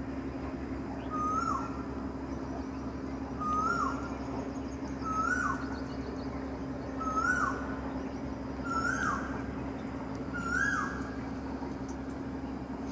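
A bird calling the same short note six times, each a quick rise then a falling swoop, about every two seconds, over a steady low hum.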